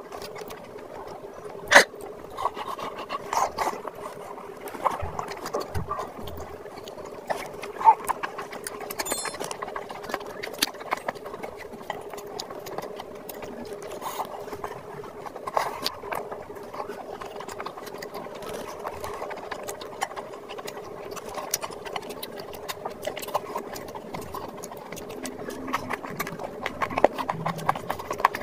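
Close-miked eating sounds of mutton curry and rice being eaten by hand: wet chewing and lip smacking, with a steady patter of small clicks and two sharper clicks.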